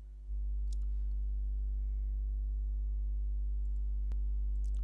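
Steady low electrical hum with a ladder of overtones, stepping up in level about a third of a second in. A few faint keyboard clicks sound over it.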